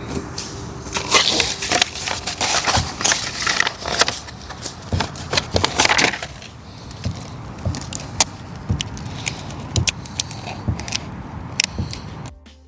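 Crinkling and rustling of material being handled, with many sharp clicks. It is busiest in the first half, thins to scattered clicks, and cuts off abruptly near the end.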